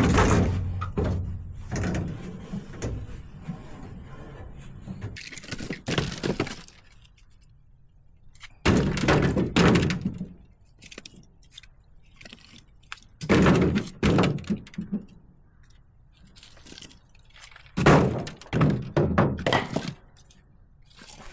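Split firewood logs knocking and clattering against one another as they are stacked, in about five bursts a few seconds apart with quieter gaps between.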